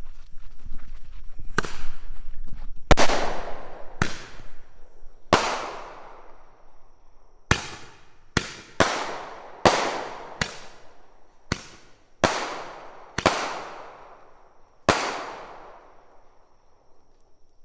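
Roman candle firing, sending off about a dozen sharp bangs at uneven intervals, each ringing out and fading before the next.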